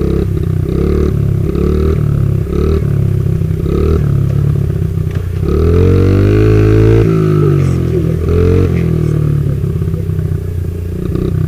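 Motorcycle engine running, revved up about halfway through and then falling back.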